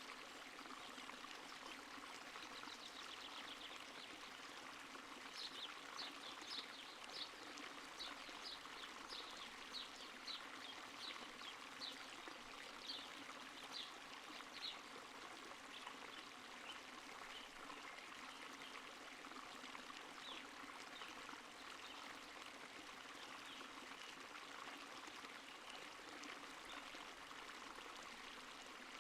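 Faint, steady sound of a stream of running water. From about five to fifteen seconds in, a run of around fifteen short, high, sharp notes sounds over the water, roughly one and a half a second.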